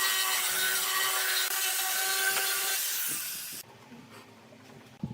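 Electric power tool running with a steady whine while it cuts or sands wood, stopping suddenly about three and a half seconds in.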